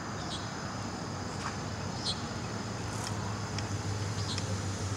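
Steady outdoor hum of traffic, with faint high chirping insects recurring every second or so; the hum grows slightly louder.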